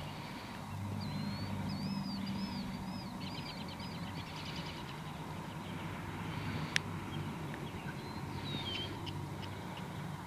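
Songbirds chirping and trilling over a low steady hum, with one sharp click about seven seconds in.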